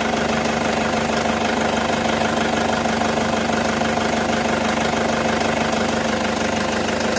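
Toyota Fortuner engine idling steadily, an even running sound with a constant hum.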